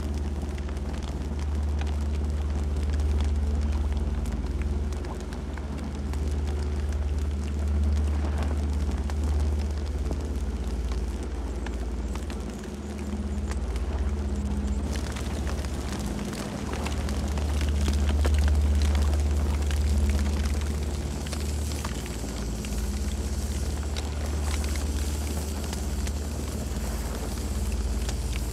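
Campfire burning: a steady deep rumble of flames with faint, scattered crackles.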